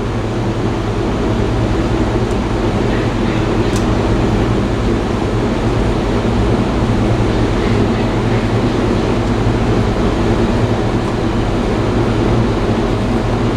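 A steady mechanical hum, a low droning note with its overtones over a constant rushing noise, holding level without change.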